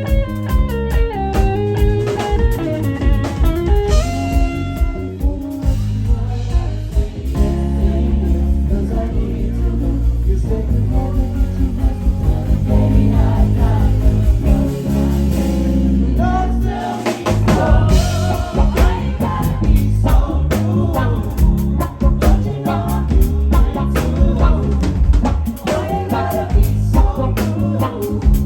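A live band playing, with guitar out front over bass and a drum kit; a run of single descending guitar notes opens the passage, and the band drops out for a moment about two-thirds of the way through before coming back in.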